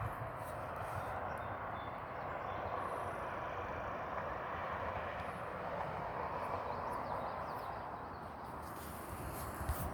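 Heavy rain falling steadily in a thunderstorm, a constant hiss, with a low thump near the end.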